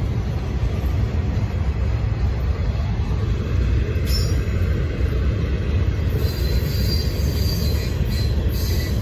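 Freight train's gondola cars rolling past with a steady low rumble of steel wheels on rail. High-pitched wheel squeal breaks in briefly about four seconds in, then again on and off through the second half.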